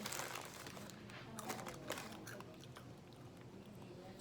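Close-up chewing of crunchy fried food: a few crisp crunches in the first two seconds, then softer chewing.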